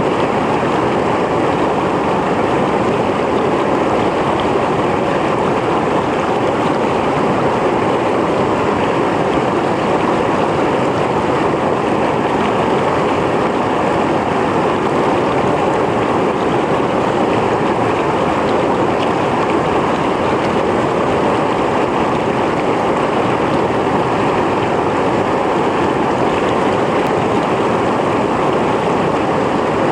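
Mountain stream flowing over rocks: a steady, dense rush of water.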